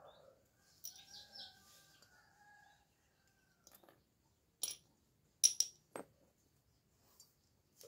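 Quiet metal clicks and taps from hand tools on a motorcycle cylinder head while a valve is being removed, three sharp ones close together about two thirds of the way in. Early on, a faint bird call is heard in the background for about two seconds.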